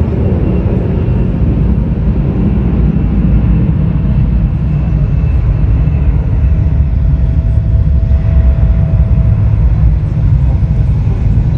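Jet airliner engines running: a loud, steady, deep rumble, with a faint whine heard in the middle of the stretch.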